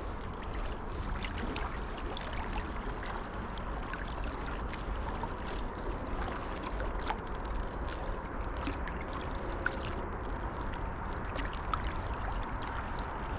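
Kayak paddling on calm creek water: light splashes and drips from the paddle blades, over a steady low rumble.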